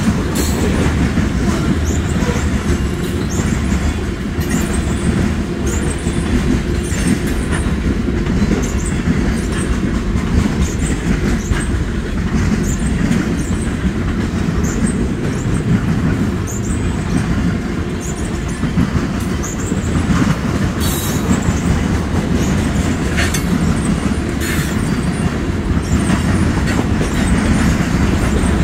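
Norfolk Southern manifest freight cars (covered hoppers, boxcars, flatcars and tank cars) rolling past at steady speed: a continuous steel-wheel rumble with clickety-clack over the rail joints, many short high-pitched wheel squeals, and a few sharp clanks a little after two-thirds of the way through.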